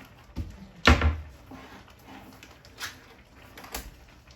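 Kitchen handling knocks: one loud thump about a second in, with a smaller knock just before it and a couple of lighter clicks later.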